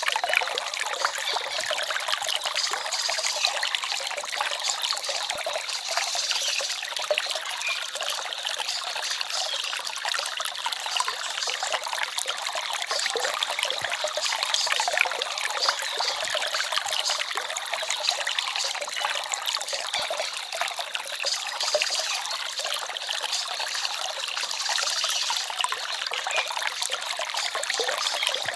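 A small forest stream trickling and babbling over stones, a steady light splashing with hardly any deep rumble.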